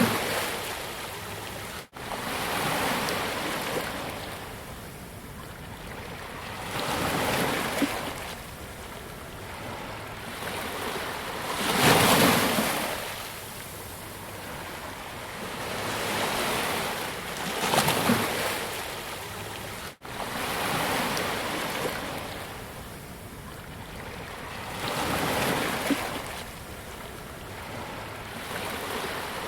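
Ocean waves breaking on a beach, a swelling crash every five or six seconds with the hiss of surf washing back in between. The sound cuts out for an instant twice.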